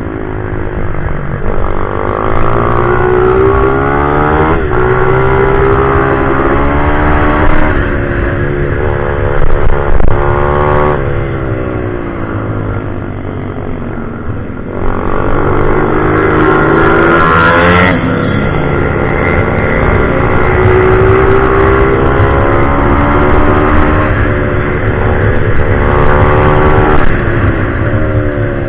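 Pit bike engine revving hard as it is ridden round a track: the pitch climbs, breaks at each gear change and falls away when the throttle closes for corners, over and over.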